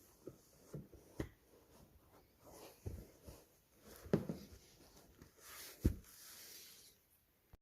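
Scattered light knocks and clicks of tools and metal parts being handled, the loudest about four and six seconds in, with a soft hiss for about a second and a half near the end.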